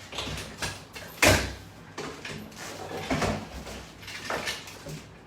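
A few knocks and clatters of exercise gear being handled, the loudest about a second in, as a resistance-band exercise bar is set down on the floor.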